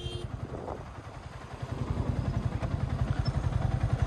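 Yamaha R15's 155 cc single-cylinder engine running as the bike is ridden, with a steady low pulsing that grows louder after about a second and a half.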